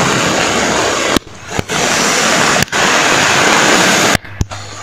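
Heavy rain pouring down onto a flooded street, a dense steady hiss that breaks off briefly twice, a little after a second in and near the end.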